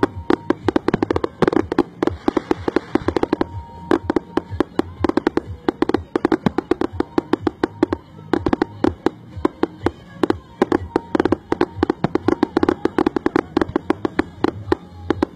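Fireworks going off in a rapid barrage: sharp bangs and crackles, several a second, with no let-up.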